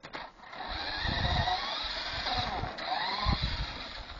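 Electric motor and gears of a small battery-powered car whining as it drives, the pitch rising and falling with speed, over rough rolling noise and a few low knocks in the second half.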